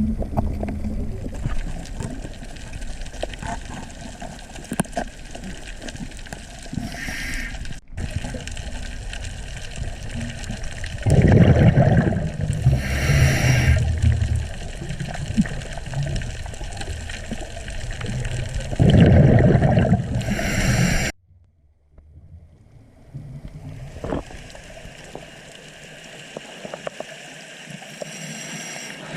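Underwater ambience of scuba diving: a diver breathing through a regulator, with the exhaled bubbles gurgling loudly twice.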